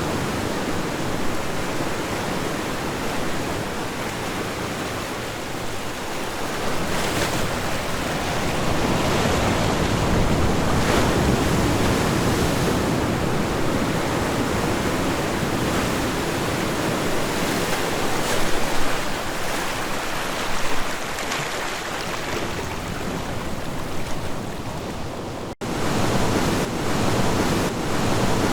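Ocean waves breaking and washing on a shore, the surf swelling and easing every few seconds. A momentary gap in the sound comes near the end.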